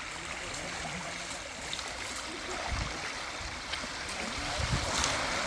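River water flowing in a steady rushing, with a few short low thumps about three seconds in and near the end.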